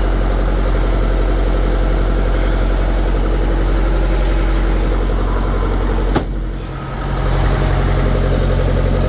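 Refrigeration unit's diesel engine running steadily on continuous after being jump-started. One sharp knock about six seconds in.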